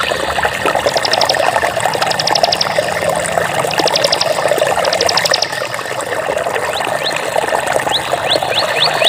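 Water running and trickling steadily, as in a small stream. Over it come short bursts of rapid high-pitched chirping, four in the first half, and a run of quick rising chirps returns near the end.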